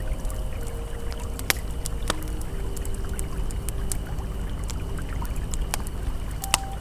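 Campfire crackling with scattered sharp pops over the steady rush of a flowing river. Faint held ambient tones sit underneath.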